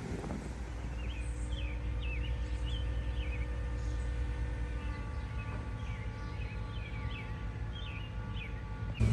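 A steady low hum with a repeated series of short, high bird chirps over it.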